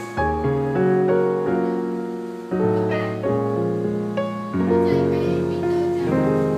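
Background piano music: chords and a melody played at a moderate pace, each note struck and then fading.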